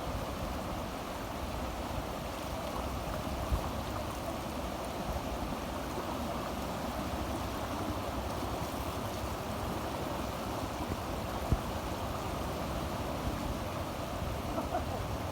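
Floodwater rushing steadily, an even wash of moving water, with two brief knocks, one about three and a half seconds in and one near the middle.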